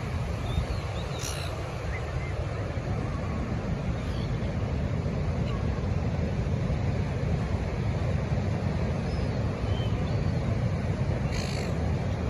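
Steady low wind rumble buffeting the microphone, with scattered bird calls. Two louder calls come about a second in and near the end, and a few faint chirps fall between them.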